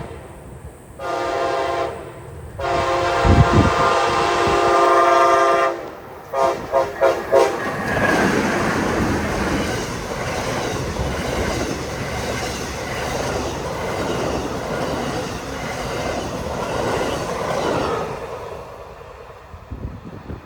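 Amtrak passenger train led by a Siemens ALC-42 Charger locomotive sounding its horn: a short blast, a long blast, then four quick short toots. The train then passes close by with a loud steady rush of wheel and rail noise that fades near the end.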